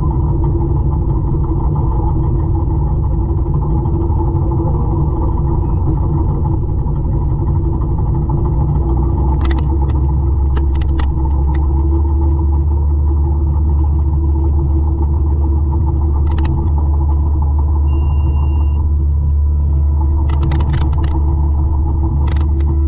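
A 200-horsepower forestry mulcher running steadily with a deep low drone that grows heavier about nine seconds in, with several short sharp knocks in the second half.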